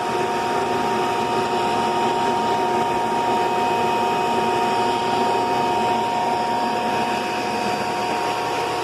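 Hoover PowerMax II upright vacuum cleaner running steadily: a constant motor whine over the rush of airflow.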